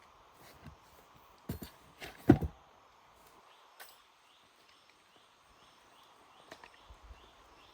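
Scattered knocks and thumps, the loudest a little over two seconds in. A faint series of short rising chirps runs through the second half over a quiet outdoor background.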